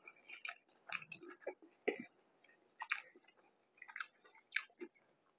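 A person chewing a mouthful of ground pork mac and cheese burger: irregular wet, smacking mouth clicks, a few a second.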